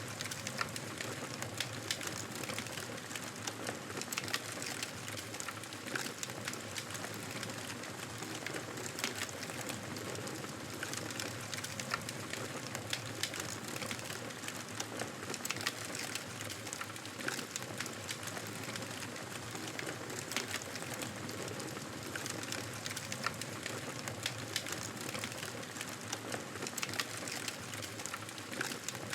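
Wood fire crackling in a fireplace: a steady soft hiss with many small, irregular pops and snaps.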